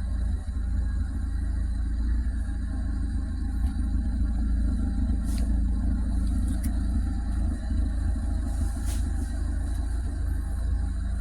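2004 Suzuki Karimun running, a steady low rumble.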